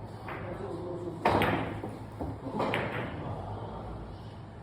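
Billiard balls clacking: three sharp knocks, the loudest a little over a second in and another about a second and a half later.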